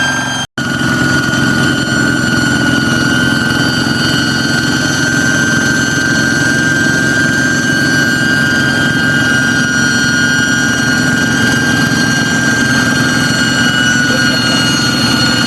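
Kubota single-cylinder diesel engine on a hand tractor running steadily, with a strong high-pitched whistle over the engine note that gives it a jet-like sound. The sound cuts out for an instant about half a second in.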